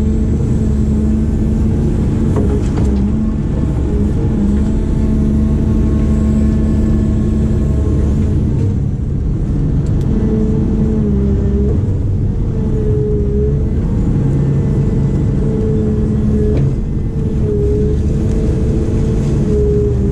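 Diesel engine of a heavy construction machine (wheeled excavator or backhoe) running steadily under working load, with a pitched whine that dips and rises a little in the second half.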